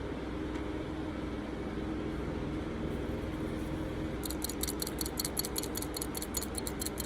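Steady low hum, and from about four seconds in a fast, even run of small dry clicks, about eight a second, which carries on to the end.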